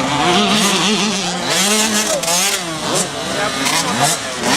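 Several motocross bikes revving, their engine notes rising and falling over one another, with a quick climb in pitch about three seconds in.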